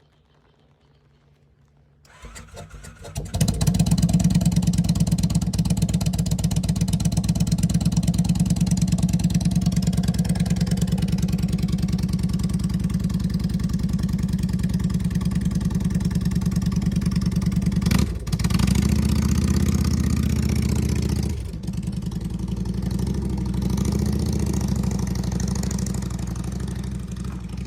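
Motorcycle engine starting about two seconds in, then running steadily with an even firing pulse, briefly dipping twice in the last third.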